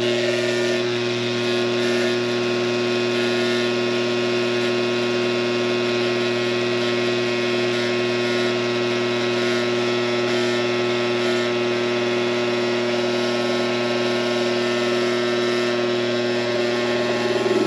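Coleman Presidential II furnace blower fan motor running on the bench with its bearings freshly greased: a steady hum that doesn't sound good at all. The owner puts it down to slack from bushings worn out over time.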